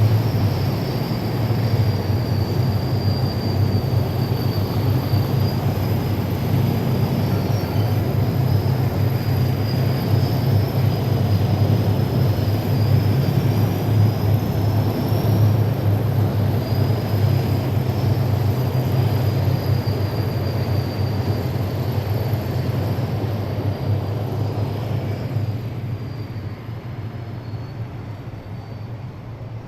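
Heavy military vehicles driving past in a column: a deep, steady engine drone with a thin high whine wavering above it, fading over the last few seconds.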